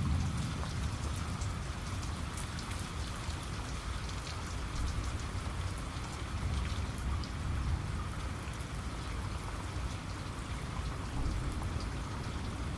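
Steady rain falling, with many individual drops ticking sharply close by over a continuous low rumble.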